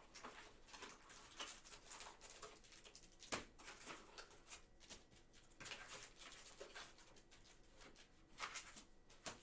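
Faint, irregular crinkling and clicking of trading-card packs and cards being handled and opened, with one sharper click about three and a half seconds in.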